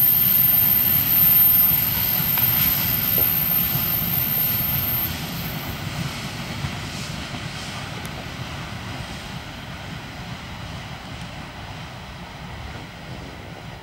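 Freight train wagons rolling away over the rails: a steady rumble that fades as the train recedes, dropping noticeably about five seconds in.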